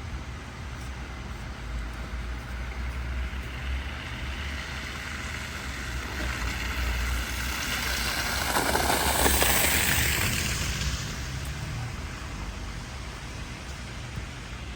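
Street traffic rumble with one vehicle passing close by, its tyre and engine noise swelling to a peak about nine seconds in and then fading, on a snowy city street.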